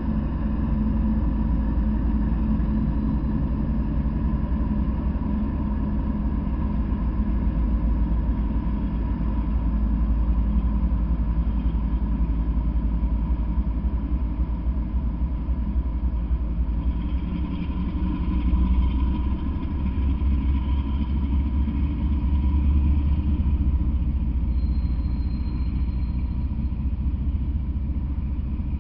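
Freight train passing close by: Norfolk Southern diesel locomotives rumble by with a steady engine drone, then a string of autorack cars rolls past. Partway through, the wheel-and-rail noise turns rougher and higher.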